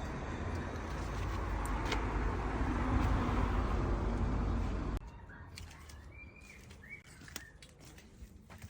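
Steady rushing noise with a heavy low rumble for about five seconds, then a sudden cut to a quiet outdoor background where a small bird chirps a few times.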